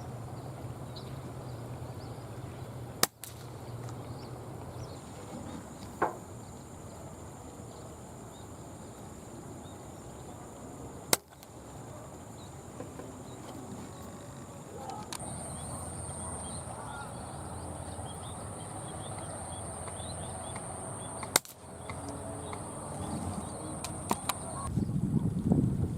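Air rifle fired three times, each shot a single sharp crack about eight to ten seconds apart. Faint bird chirps and a steady high-pitched hum run behind the shots, and a louder rustle comes near the end.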